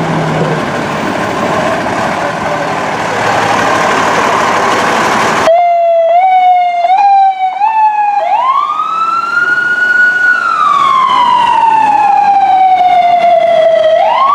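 A loud rushing noise for the first five seconds, then an emergency vehicle's electronic siren: short rising sweeps about twice a second, then a long wail that rises, falls slowly, and rises again near the end.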